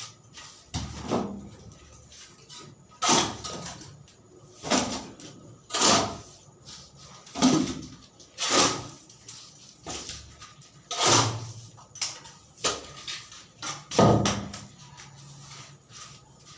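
Manual construction work: a series of about a dozen uneven knocks or scraping strokes, roughly one every second or two, each dying away briefly.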